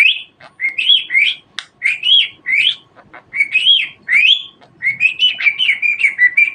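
Budgerigar calling: short whistled chirps that sweep up and down, coming in quick pairs, breaking into a faster run of warbling notes near the end.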